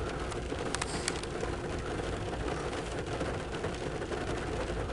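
Steady rain noise on a parked car, heard from inside the cabin, with a few sharp clicks about a second in.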